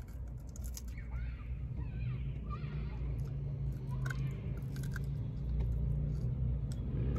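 Close chewing and crunching of fried chicken and french fries, with small wet mouth clicks scattered throughout, over a steady low rumble of traffic from a busy street.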